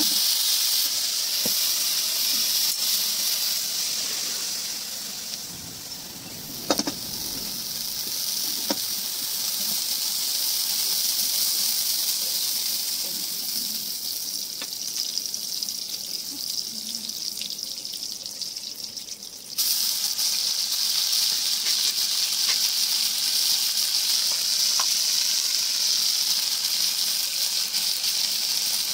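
Hot oil sizzling steadily in a wok over a wood-fired clay stove as vegetable pieces, then spice paste, fry in it. There is a single sharp knock about a quarter of the way in, and the sizzle jumps suddenly louder about two-thirds of the way through.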